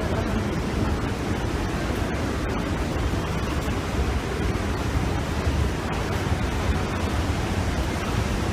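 Steady rushing roar of a large waterfall, an even wash of noise heaviest in the low end.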